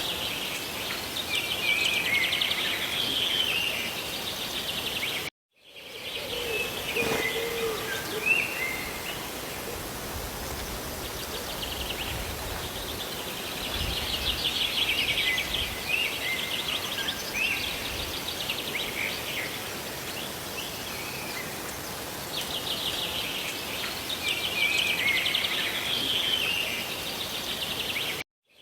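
Steady hiss of rain with songbirds chirping over it in repeated bursts. The sound cuts out completely for a moment about five seconds in and again near the end.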